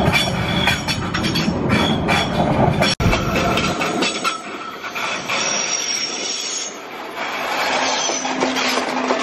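BLS electric passenger train passing close by, its wheels rumbling and clacking over the track. After a sudden cut, a second passing train with a thin, high-pitched wheel squeal.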